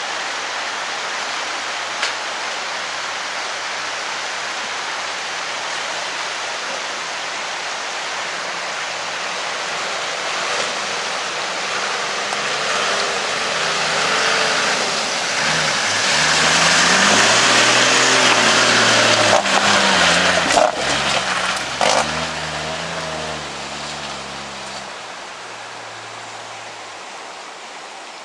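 A four-wheel drive's engine comes closer over a steady rushing noise, its revs rising and falling as it crawls over the rough track. It is loudest about two-thirds of the way through, with a few sharp knocks, then fades as it drives away.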